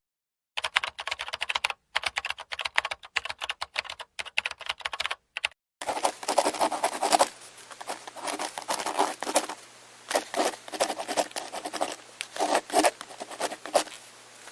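Small birds pecking and scrabbling at food, a rapid, irregular run of sharp taps and scratches in short flurries. A faint low hum joins about six seconds in.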